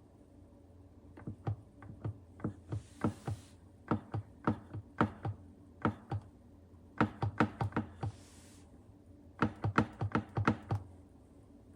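A utensil tapping and knocking on a dish, in irregular runs of sharp clicks about two to three a second, with two short scraping hisses in between.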